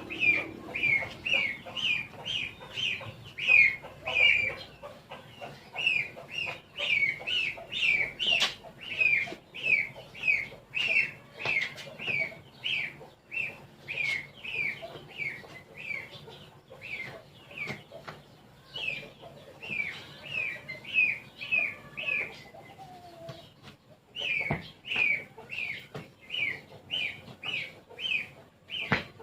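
A bird calling over and over in short, falling chirps, about two a second, breaking off for a couple of seconds before starting again.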